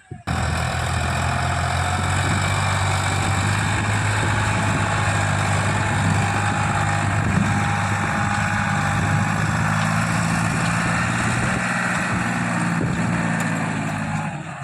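Tractor diesel engine running steadily at an even, low speed, starting abruptly just after the beginning.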